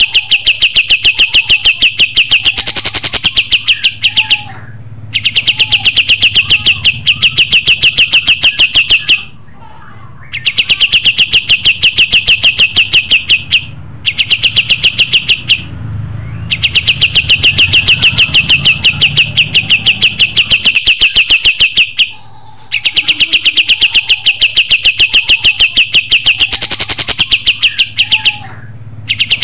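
A kapas tembak (cream-vented bulbul) singing loudly and without let-up, a rapid high trill of evenly repeated notes in long phrases of about three to five seconds broken by short pauses.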